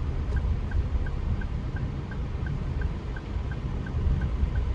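Car's turn-signal indicator ticking steadily, about three ticks a second, over the low rumble of the engine and road inside the cabin.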